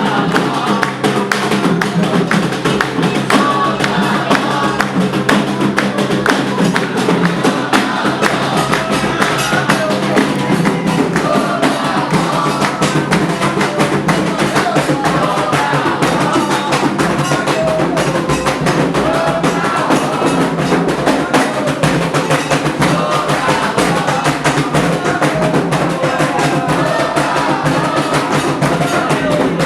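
Candomblé ritual music: hand drums beating a fast, steady rhythm under group singing of a song for Xangô.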